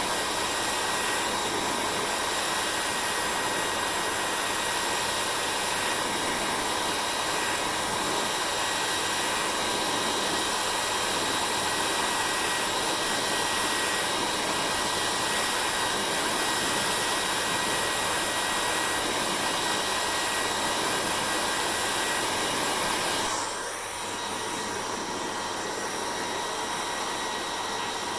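Hair dryer running steadily: rushing airflow with a faint steady whine. About 23 seconds in, the sound briefly dips, then carries on slightly quieter.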